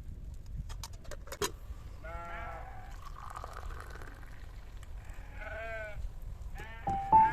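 An animal bleats twice, a few seconds apart, each call short and wavering. A few sharp clicks come before the first bleat, and piano music starts at the very end.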